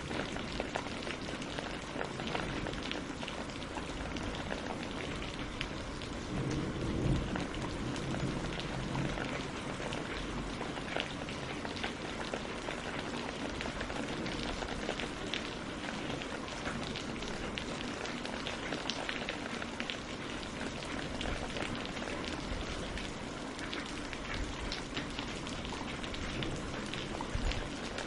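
Steady rain falling on leaves and on a lake's surface, a continuous patter of many drops, with a slight low rumble swelling briefly about a quarter of the way in.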